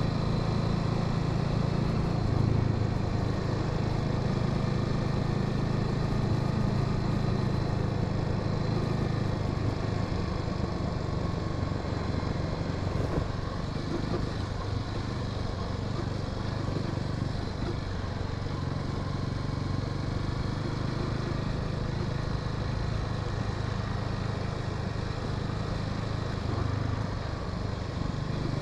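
Honda Sahara 300 motorcycle engine running steadily while riding, with road and wind noise; it eases off a little in the middle.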